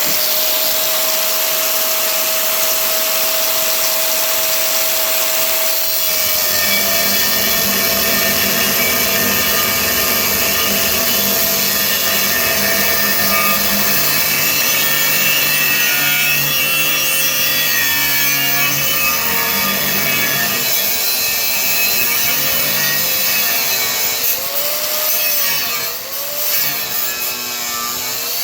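A power tool cutting through 1/8-inch steel angle iron. The tool runs steadily, and the pitch of its motor sags and wavers as it works under load.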